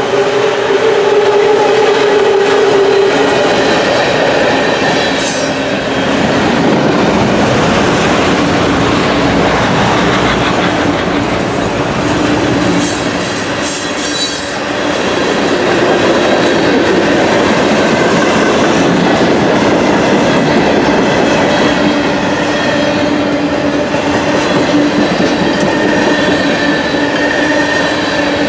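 Freight train cars rolling past close by: continuous steel wheel-on-rail noise with steady squealing tones from the wheels.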